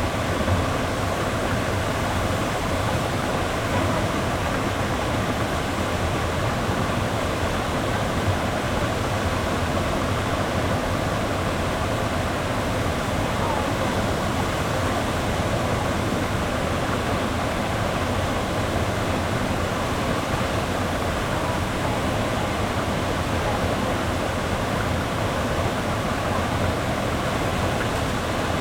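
Melincourt waterfall pouring: a steady, loud rush of falling water.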